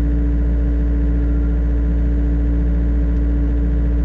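Diesel engine of a New Holland E50.2 mini excavator running steadily, heard from inside the operator's cab while it digs out a drainage ditch.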